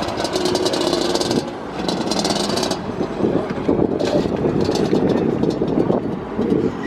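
Supercharged Honda S2000 with a 3-inch HKS exhaust driving, a steady engine and exhaust sound with two brief dips in level, about one and a half and three seconds in.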